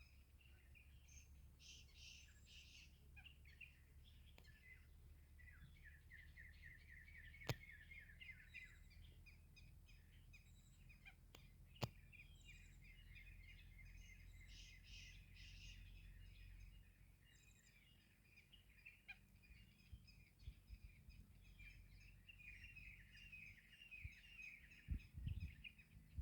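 Faint bird chirping and twittering, many quick short chirps in runs, over a low rumble that drops away about two-thirds of the way in. Two sharp clicks stand out, one about a third of the way in and one near the middle.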